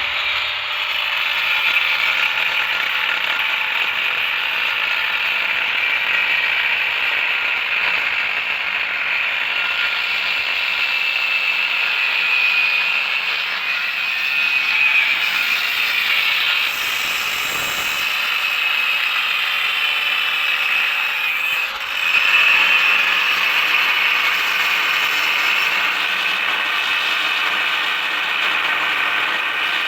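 Handheld angle grinder running continuously, with a steady motor whine under a loud grinding hiss from its disc.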